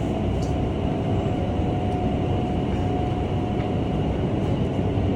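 Steady loud rush of air from an indoor skydiving vertical wind tunnel running, with a faint steady tone under it.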